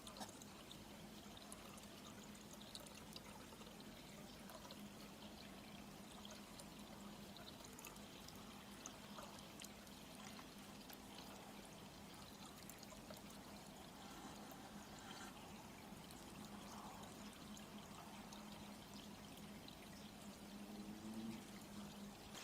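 Near silence: a faint steady hiss with a low steady hum and a few faint ticks.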